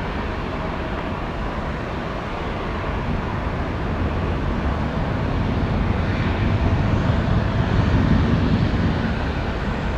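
Jet airliner's engines rumbling, growing louder over several seconds and easing slightly near the end.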